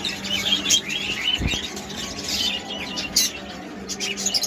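A flock of budgerigars chattering, with many short overlapping chirps and warbles at once. A single dull thump sounds about a second and a half in, over a faint steady low hum.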